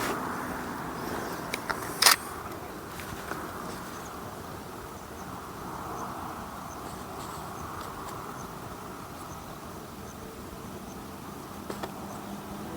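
A single sharp click about two seconds in, most likely an SLR camera shutter firing, over a steady outdoor hiss.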